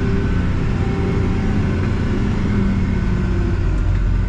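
Backhoe loader's diesel engine running steadily, heard from inside the cab, a low drone with a held hum that deepens a little near the end as the machine works in the creek bed.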